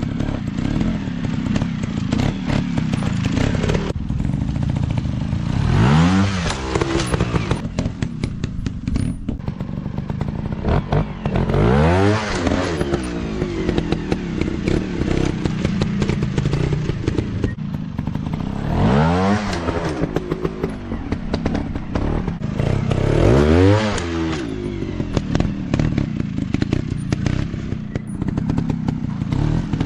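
Dirt bike engine running with a rough, crackling note. Four times it revs up, its pitch climbing sharply and then falling back.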